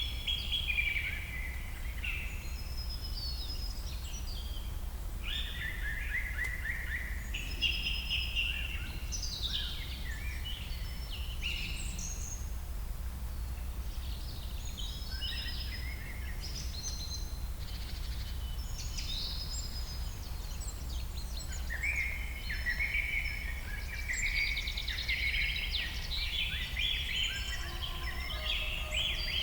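Jungle ambience: many birds calling and chirping together over a steady low rumble, the calls busiest near the start and again in the last third.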